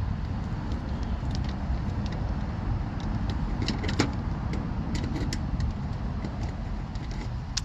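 Scattered small clicks and clinks of parts and tools being handled on an air-conditioning unit, the sharpest about four seconds in, over a steady low rumble.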